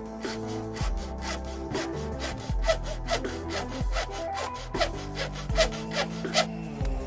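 Quick, even hand-tool strokes rasping into the factory tag-light panel as it is cut and shaped to fit around a backup camera, stopping near the end, over background music.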